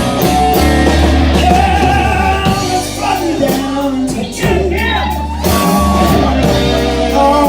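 Live blues band playing a slow blues, with electric guitar, bass and drum kit under a sung vocal line that slides between notes.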